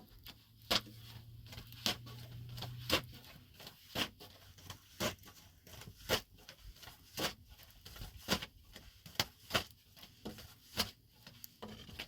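A series of sharp taps or knocks, irregular, about one a second, with a low steady hum under the first few seconds.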